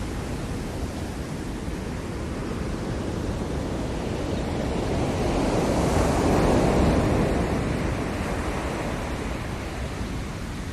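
Ocean surf: a steady wash of waves, with one wave building to a crash about six seconds in and then falling back.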